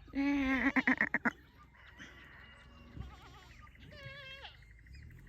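A farm goat or sheep bleats loudly once, a wavering call that breaks into quick pulses and stops about a second in. Fainter chirps and whistles follow.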